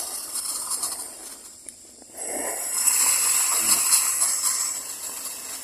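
Just-boiled water poured from a small pot or kettle, a steady hissing splash that starts suddenly about two seconds in.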